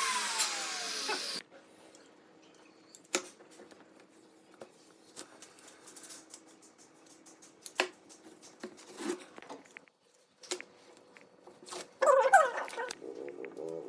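A power tool runs with a falling whine and cuts off about a second and a half in, followed by scattered light taps and clicks. A cat starts meowing near the end.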